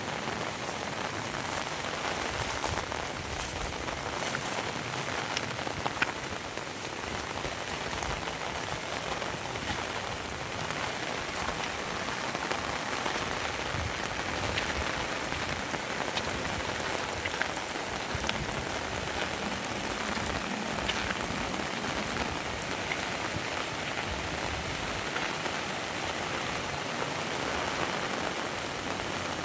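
Heavy rain falling steadily, a dense patter of drops with scattered sharper taps.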